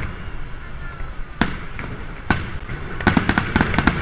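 Aerial fireworks going off: two separate bangs in the first half, then from about three seconds in a rapid string of sharp cracks as a shell of crackling white stars bursts overhead.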